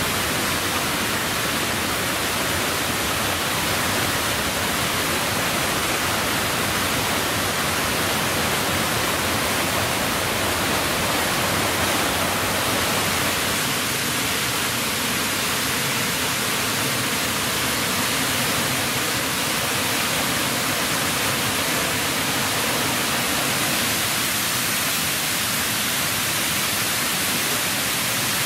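Waterfall cascade rushing steadily, a loud, even hiss of falling water.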